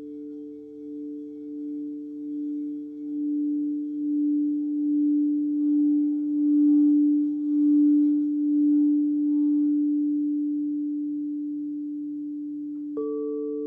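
Singing bowl sounding with a low, wavering hum that swells over several seconds and then slowly fades. Near the end it is struck once, adding a higher ring.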